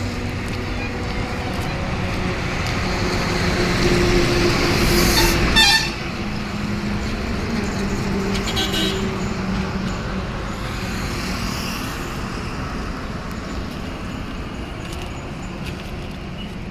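Diesel engine of a SANY motor grader running, growing louder over the first six seconds and then dropping suddenly. Two short toots are heard, about five seconds in and again near nine seconds.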